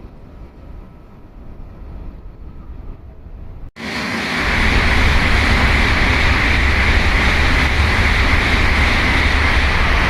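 Sanyo Shinkansen train noise at a station platform: a low rumble, then after an abrupt cut a little over a third of the way in, a loud steady rush of a high-speed train going by, with a strong deep rumble underneath.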